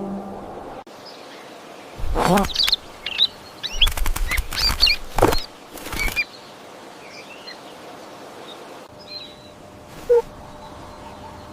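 A bird flapping its wings in loud bursts, once about two seconds in and again from about four to six seconds, with short high chirps mixed in. Fainter chirps follow, then a brief sharp note near the end.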